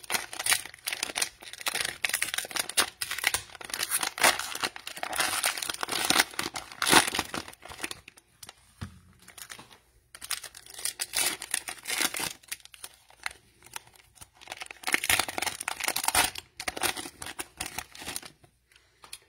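Cellophane wrapper of a trading-card cello pack being torn open and crinkled, in irregular crackling stretches with short pauses.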